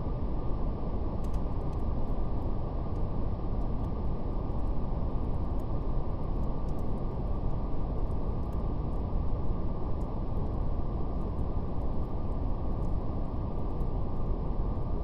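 Steady brown noise, a deep even hiss with little above the low and middle range, with faint scattered crackles of a fire.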